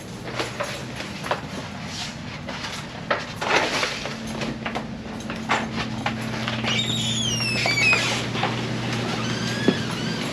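Scattered knocks and clicks of someone moving and handling gear, with a steady low hum starting about four seconds in and a brief high squeak falling in pitch near the end.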